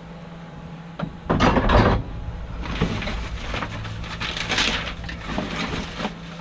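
Rummaging through dumpster debris: a loud clatter with a deep thump about a second and a half in, then rustling and scraping as junk is shifted around.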